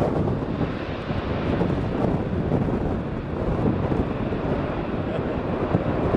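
Strong gusty wind buffeting the microphone, with the low rumble of an ATR 72-500's twin turboprop engines underneath.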